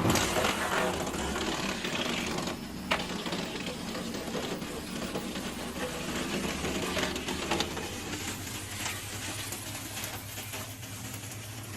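Wood chipper running: a steady engine drone under a fast, rattling clatter of wood being chipped, with a couple of sharp knocks about three and seven and a half seconds in. The sound cuts off abruptly at the end.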